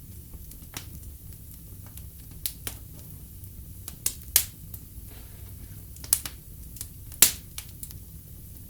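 Wood fire burning in a fireplace, a steady low rumble of flames with irregular sharp crackles and pops, the loudest two pops about four and seven seconds in.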